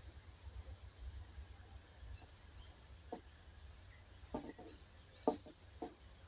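Faint, scattered chirps of small forest birds over a low rumble, with a few short knocks or crackles partway through; the loudest comes a little past five seconds.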